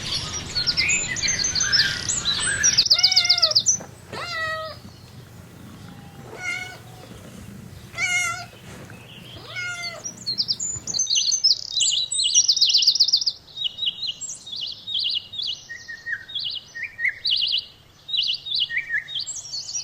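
A kitten or cat meowing about five times in short, bending calls, with small birds chirping before and a fast run of high bird chirps and trills taking over near the middle.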